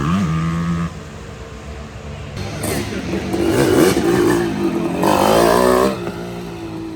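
Motorcycle engines running. One holds a steady note and drops away about a second in, then engines rev up and down through the middle, the last loud burst cutting off near the end.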